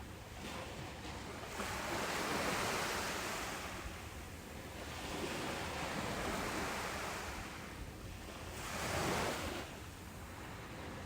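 Ocean waves breaking on a beach, a continuous wash of surf that swells and ebbs, with three surges about two to four seconds apart, the strongest near the end.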